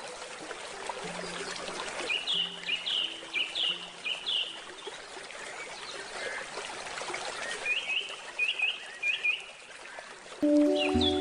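Water trickling steadily while a bird sings two phrases of quick, repeated downward-slurred notes. Soft handpan notes ring underneath, and louder handpan notes come in near the end.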